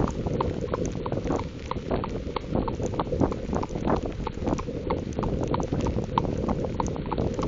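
A horse's hooves striking wet ground in an irregular run of knocks, under heavy wind rumble on the microphone.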